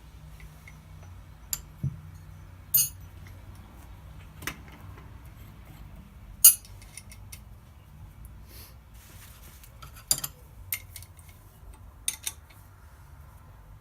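Small metal parts clinking and being set down on a hard surface, a sharp clink every second or so at uneven intervals, over a low steady hum.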